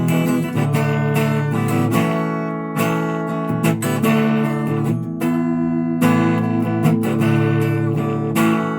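Guitar strummed in full chords in a steady rhythm, stopping near the end.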